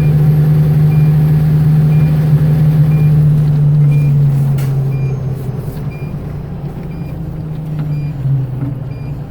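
Diesel engine of a 2010 Pierce Arrow XT fire engine running with a steady drone that fades down about halfway through, while a backup alarm beeps about once a second.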